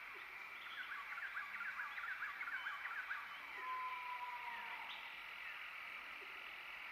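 Wild birds calling over a steady insect buzz. First comes a quick run of short chirps, then about halfway through a single long whistled note.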